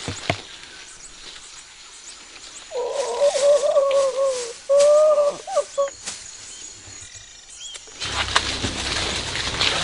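Spider monkey call: a long wavering hooting note starting a few seconds in, then a shorter one right after it. Background music comes in near the end.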